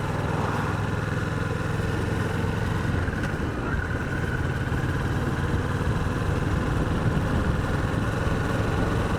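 Kawasaki Vulcan 650's parallel-twin engine running under the rider, holding a steady low note for the first couple of seconds and then changing as the bike moves on.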